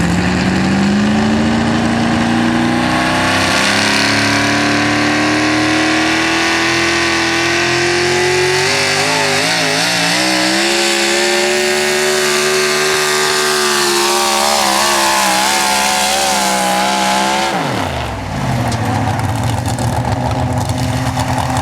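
A National Sportsman class 4x4 pulling truck's engine revving hard under load through a pull. The revs climb steeply at the start and hold high, with the pitch wavering twice as the truck bounces down the track. Near the end the revs drop sharply as the driver lifts off, falling back to a low idle.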